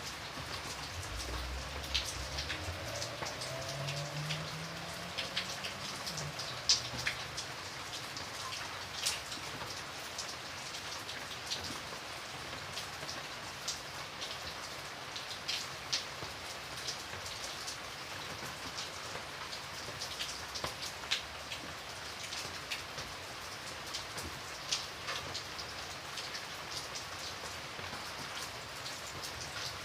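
Steady rain falling, with many individual drops ticking sharply on a nearby surface. A faint low hum rises slightly in pitch and fades in the first several seconds.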